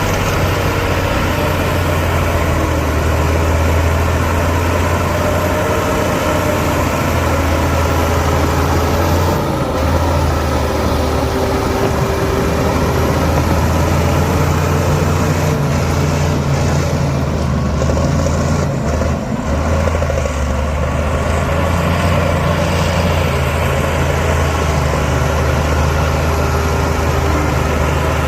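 Heavy diesel engine of earthmoving machinery running steadily with a low drone.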